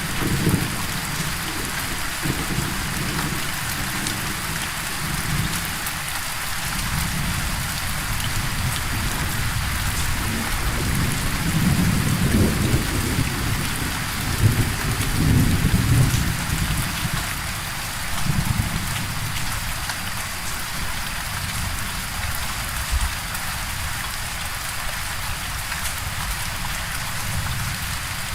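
Steady heavy rain hissing, with low rolling thunder that swells to its loudest about halfway through and rumbles once more shortly after.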